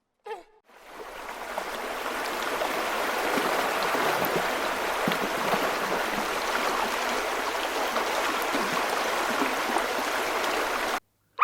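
Steady rushing, splashing noise like running water, fading in about a second in and cutting off abruptly near the end. A brief sound that falls in pitch comes just before it.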